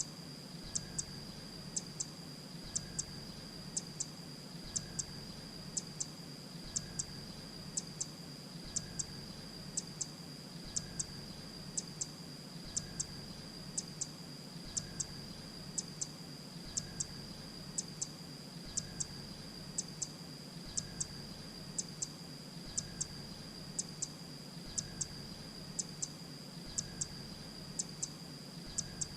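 Grey-breasted prinia call played as a bird-luring decoy recording: a pair of short, sharp high notes repeated evenly about once a second, over a steady high-pitched whine.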